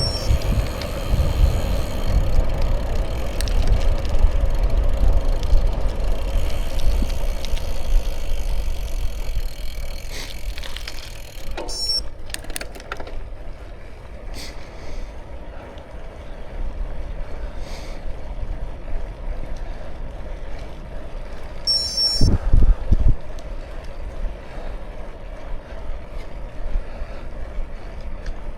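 Bicycle ride ambience: a steady low rumble of wind on the microphone and tyres on the road, loudest for the first ten seconds and then quieter. Brief high chirps come three times, and a short low thump sounds a little past the middle.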